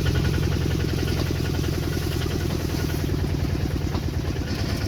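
Single-cylinder diesel engine of an e-taek farm truck running steadily with a fast, even chugging.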